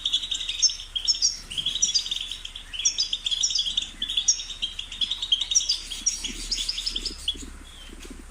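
European goldfinch singing: fast, twittering phrases of high chirps and trills, following one another with short breaks and tailing off near the end.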